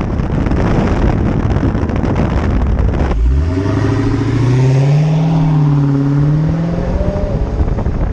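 Car engine revving hard: a loud, rough exhaust note for about three seconds, then the revs climb and hold high with a slight waver before cutting off suddenly at the end.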